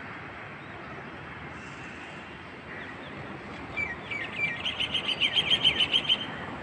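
A bird gives a fast run of short, high chirps starting a little over halfway through, growing louder before stopping shortly before the end, over steady background city noise.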